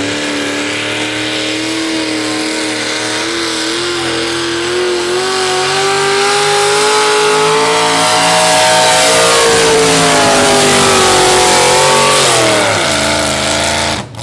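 Modified two-wheel-drive pulling truck's engine at full throttle, hauling the sled down the track. Its pitch climbs slowly for about ten seconds and is loudest late in the run, then falls back and cuts off near the end as the pull finishes.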